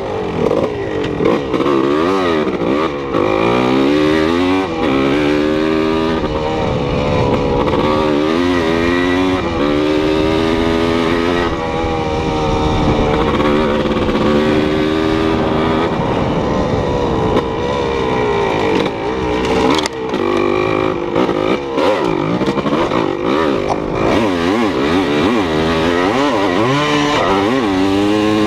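A motor engine running under way, its pitch rising and falling over and over as it speeds up and slows down.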